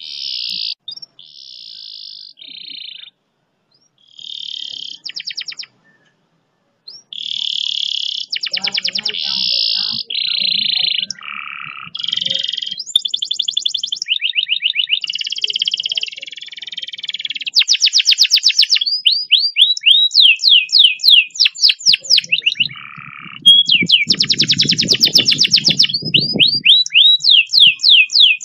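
Domestic canary singing: short phrases of rapid trills with brief pauses at first, then long fast rolls of quickly repeated sweeping notes through the second half.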